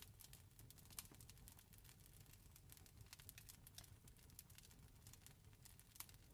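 Wood campfire crackling quietly: irregular sharp pops and snaps, two louder ones about a second in and near the end, over a low steady rumble.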